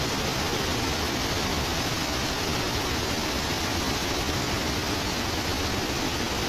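Waterfall pouring: a loud, steady rush of falling water without a break.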